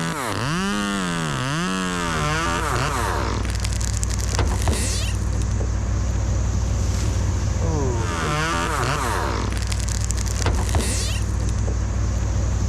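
Chainsaw revving up and down in quick blips, then running steadily at a lower pitch, likely under load in a cut. It revs again briefly about eight seconds in.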